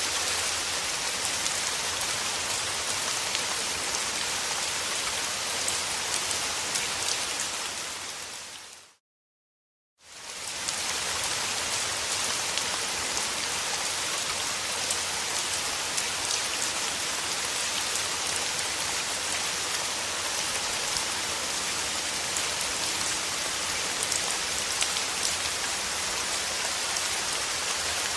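Steady rain falling and pattering on a surface, with fine drop ticks. It fades out about eight seconds in, goes fully silent for about a second, then fades back in.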